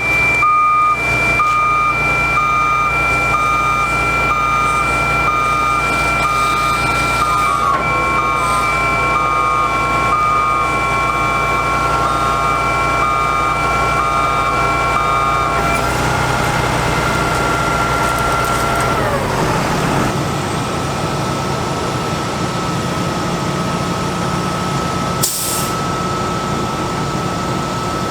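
Truck warning beeper sounding about once a second over the International DT466 diesel engine running with a steady whine. Some 16 seconds in the beeping stops and the whine falls in pitch, and a short hiss comes near the end.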